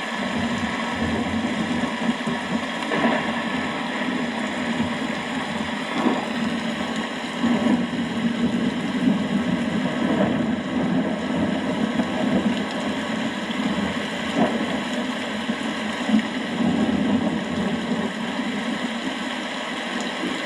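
Steady rain with a continuous low rumble beneath it that swells and fades.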